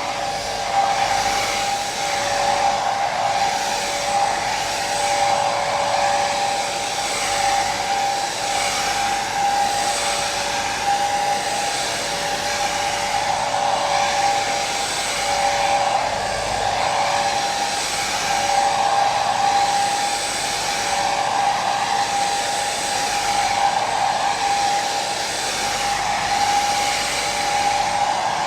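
Hair dryer running steadily: an even airflow hiss with a constant motor whine, swelling slightly about every two seconds.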